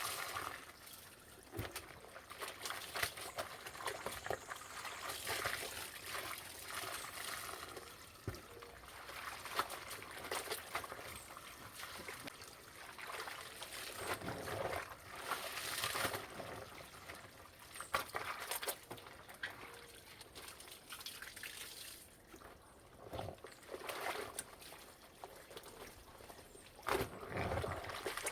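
Clothes being rinsed by hand in water: irregular splashing and trickling as the wet laundry is worked, lifted and wrung, with swells of louder splashing now and then.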